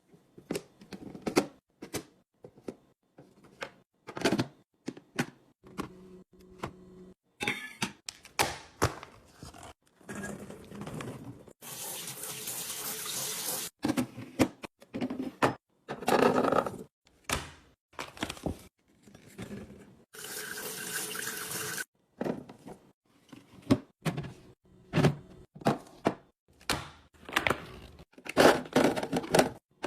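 Household containers and food items being handled and set down, a long run of short clicks, taps and knocks. Twice, for about two seconds each, liquid runs steadily, as when pouring into a container.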